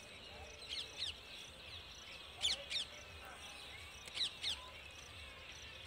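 Birds calling: short, sharp downward-sliding calls, mostly in pairs, over a faint steady outdoor background.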